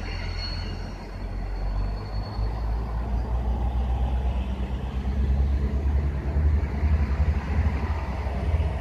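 Long freight train behind two electric locomotives running slowly through a curve. A thin, high wheel squeal fades out in the first couple of seconds, and a low, uneven rumble grows louder from about halfway through.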